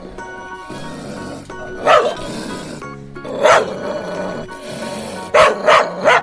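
African wild dog giving four short barks over background music.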